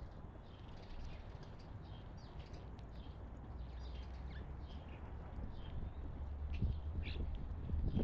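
Small wild birds chirping, many short high chirps coming every fraction of a second, over a steady low rumble.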